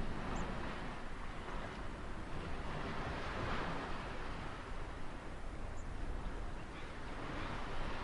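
Ocean surf: a steady rush of waves washing in, swelling and easing slowly.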